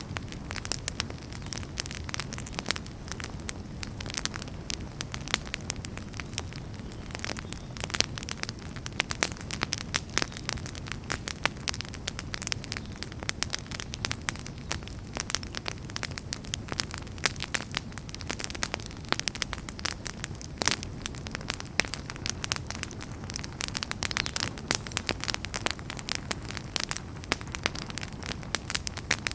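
Wood fire burning, with many sharp, irregular crackles and pops over a steady low rumble of the flames.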